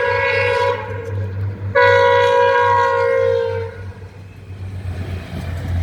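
Horn of an approaching VIA Rail Budd car sounding for a grade crossing. One blast ends just after the start, and a second, longer blast follows about a second later, dipping slightly in pitch as it cuts off. A steady low hum runs underneath.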